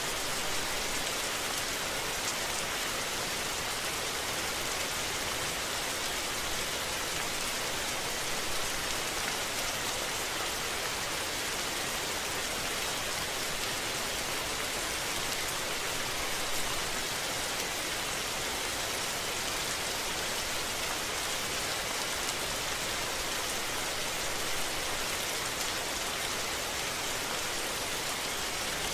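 Steady rain falling, an even hiss of dense drops with no thunder.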